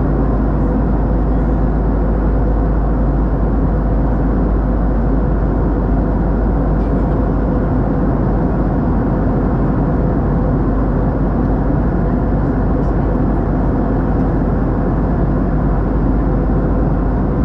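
Airbus A320 cabin noise in flight: a steady deep rumble of airflow and the CFM56 engines, with a constant low hum.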